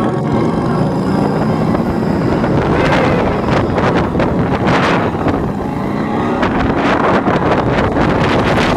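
Roller coaster train running fast along its track, with loud wind rushing over the microphone.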